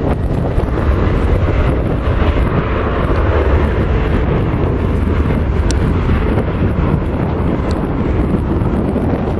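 Strong wind buffeting the microphone, a loud, steady rumble, over the jet engine noise of a Boeing 737 airliner.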